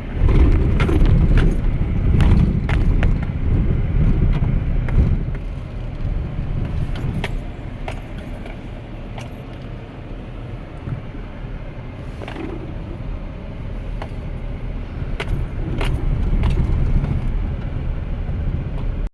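Truck engine in four-wheel-drive low with a heavy low rumble as the truck crawls up a steep two-track over large loose rocks, heard from inside the cab, with frequent sharp knocks and rattles. The rumble is louder in the first few seconds and again near the end.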